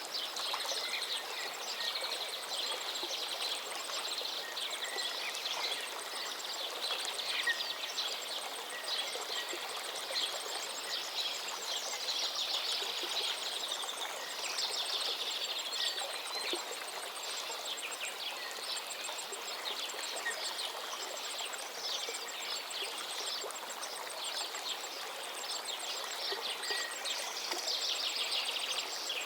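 Forest river flowing steadily, with songbirds singing over it in repeated phrases, a few louder bursts of song near the middle and near the end.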